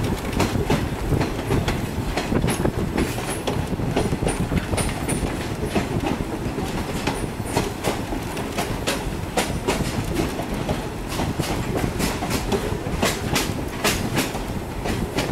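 A railroad train rolling along the track: a steady rumble from the cars, with frequent irregular clicks and clacks from the wheels.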